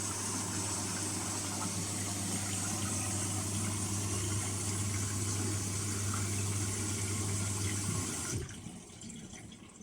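Indesit Innex washing machine running water through with a steady electrical hum and a rush of water. Both cut off abruptly about eight seconds in, leaving a few drips.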